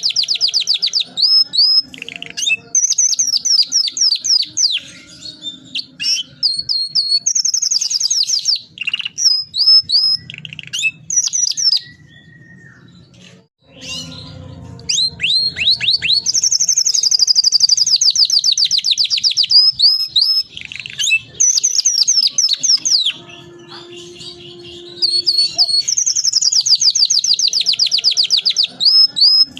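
Domestic canary singing in full song: long, fast rolling trills of rapidly repeated high notes, broken by short pauses and a brief lull about halfway through.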